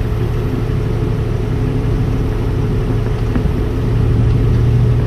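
Jeep engine running under load with a steady low hum while trying to get a vehicle out of deep mud ruts, pulling a little harder about four seconds in.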